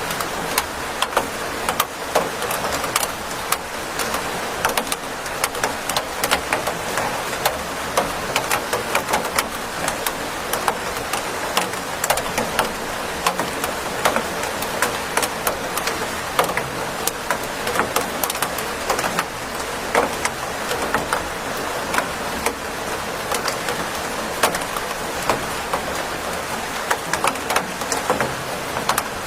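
Steady rain falling, a constant hiss dotted with many sharp drops striking a hard surface close by.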